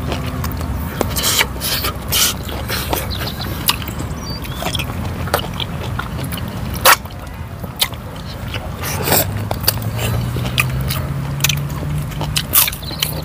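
Close-miked mukbang eating by hand: chewing, lip smacks and small bites, with one louder sharp bite about seven seconds in, over a steady low hum.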